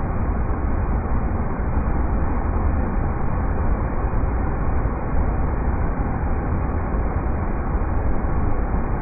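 River rapids rushing in a steady, unbroken roar of water, heaviest in the low rumble.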